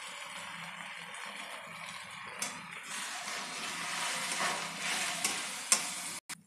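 Egg, onions and drumstick leaves sizzling in oil in an iron kadai, the hiss growing louder from about three seconds in as a spatula stirs the mixture, with a few sharp knocks of the spatula against the pan, the loudest near the end.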